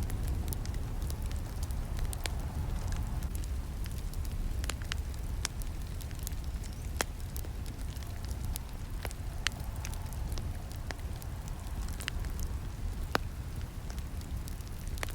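Wood campfire burning: a steady low rumble of flames with irregular sharp crackles and pops from the burning wood.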